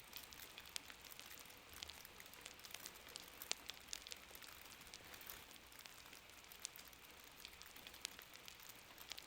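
Faint, steady soft rain with many light scattered ticks and a few louder crackles, as of a fire crackling in a hearth.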